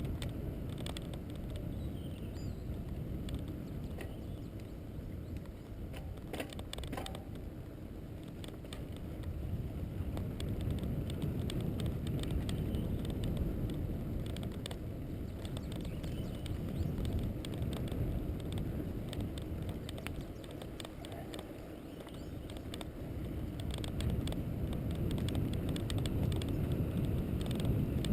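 Steady low rumble of wind buffeting and road noise from moving along a road, swelling and easing, with scattered light rattles and clicks.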